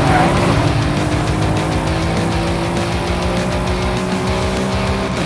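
Car engine pulling steadily, its note rising slowly, then dropping sharply about five seconds in, mixed with background music.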